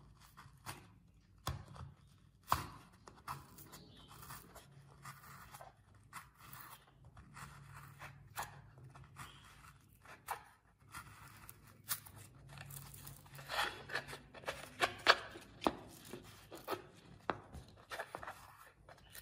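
Hand-work noises: irregular sharp clicks, short scrapes and tearing sounds, thickest and loudest about two-thirds of the way in, over a steady low hum.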